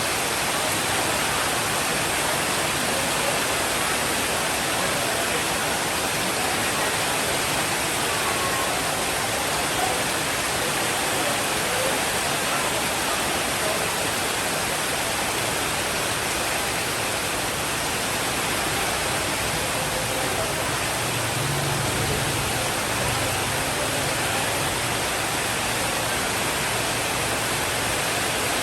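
Steady rainfall, an even dense hiss, with a low rumble of distant thunder rising briefly about twenty seconds in.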